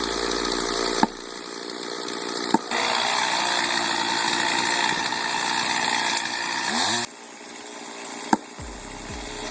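Chainsaw running at high revs and cutting, heard across several short clips joined by abrupt cuts, each join marked by a sharp click.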